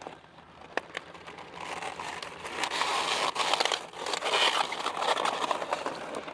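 Crisp leaves of a large cabbage head crunching and crackling as it is handled and picked: a single sharp snap a little under a second in, then a dense run of crackling that grows louder from about two seconds in.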